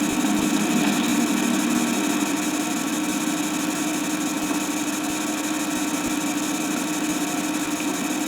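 A steady mechanical hum with hiss, even in level, with no separate knocks or changes.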